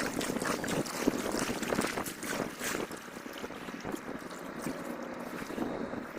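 Water lapping and dribbling around a kayak, with irregular small splashes and knocks that are busier in the first few seconds.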